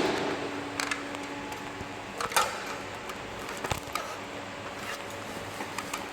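A few light, separate metallic clicks and knocks from hand tools being handled on the lift's hydraulic fittings, over a steady low hum.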